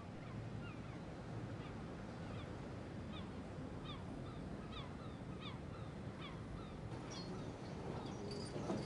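Birds calling over and over, short falling calls about a second apart, over a steady low background hum. The calls die away about two-thirds of the way through.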